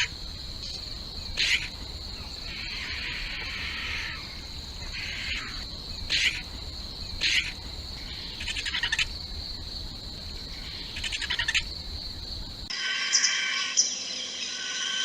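White-rumped vultures calling: short, harsh calls come every second or so over a steady high insect drone. About thirteen seconds in, the background changes and a denser run of calls follows.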